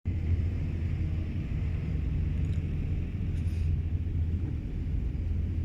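Steady low rumble with a faint hiss above it and no speech.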